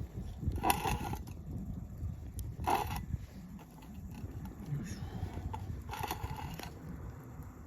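A crow cawing three times, short harsh calls a couple of seconds apart, over a low steady rumble.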